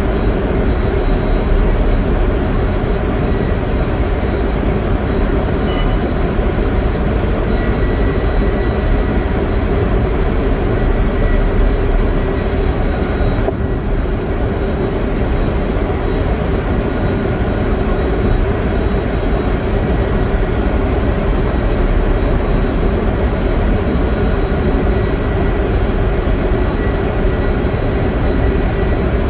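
Generator engine running loudly and steadily: a continuous machinery drone with a held hum, unchanged throughout.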